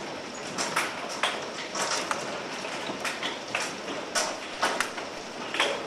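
Hail falling in a steady hiss, with irregular sharp knocks of larger hailstones striking hard surfaces about two or three times a second.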